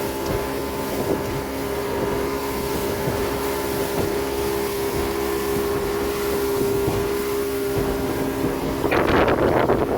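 Boat engine running at a steady speed, a constant hum. From about nine seconds in, wind buffets the microphone.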